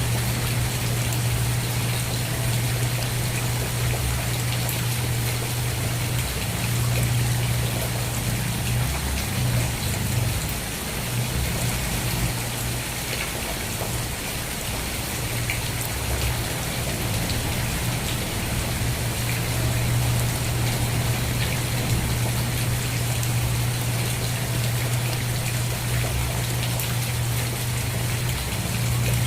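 Steady rain falling, an even hiss dotted with fine drop ticks, over a constant low hum.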